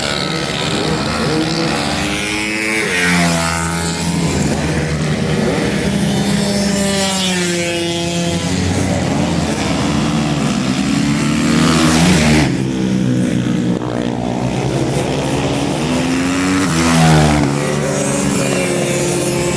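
Several racing motorcycles lapping a circuit, their engines revving up and down through the gears. One passes close just past halfway and another near the end.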